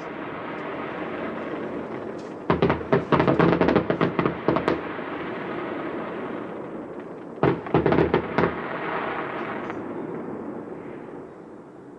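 Fireworks display: two volleys of rapid bangs, the first about two and a half seconds in and the second near eight seconds, with a rolling echo between them that fades toward the end.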